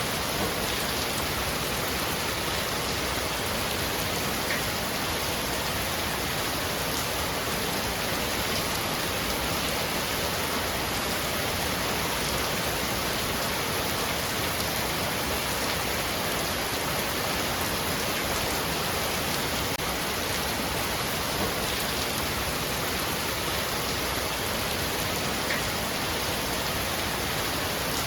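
Heavy rain falling steadily on a roof: an even, unbroken hiss of rain, with a couple of single drops standing out briefly.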